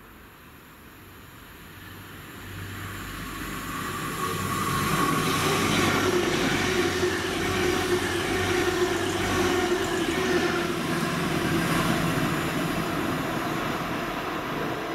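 A train approaching and passing. Its running noise builds over the first five seconds, stays loud with a steady hum for several seconds, then begins to fade near the end.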